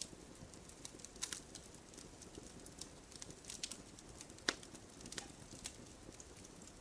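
Fire in a fireplace crackling: irregular sharp pops and snaps over a low steady hiss, the loudest pop about four and a half seconds in.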